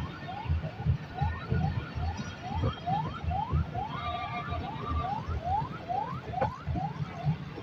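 Passenger coaches of a departing train rolling slowly past, their wheels knocking irregularly over the rail joints. A short rising squeak repeats about three times a second throughout, with a brief steady squeal about halfway through.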